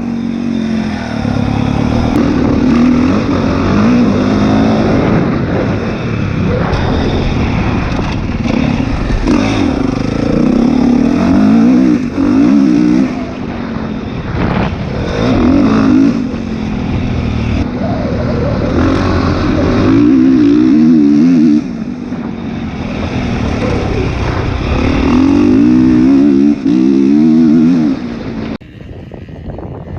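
Motocross dirt bike engine being ridden, its pitch climbing and falling again and again as it revs up and eases off. The sound drops away sharply near the end.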